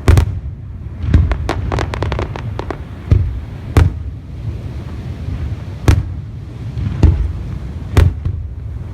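Fireworks display: aerial shells bursting in about half a dozen loud bangs spaced a second or two apart, each followed by a low rumbling echo, with a quick run of crackling pops between about one and three seconds in.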